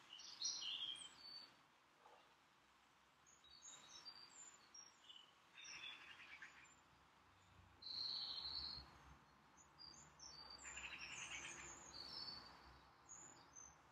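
Faint birds chirping: scattered short, high chirps with a couple of brief trills, about eight and eleven seconds in.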